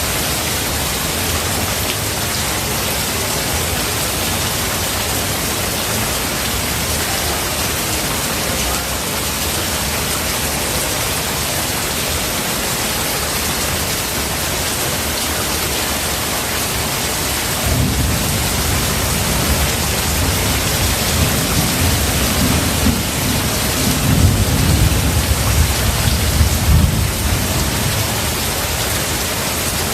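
Steady heavy rain hissing, with a low roll of thunder that starts rumbling a little past the middle, swells to its loudest near the end and dies away.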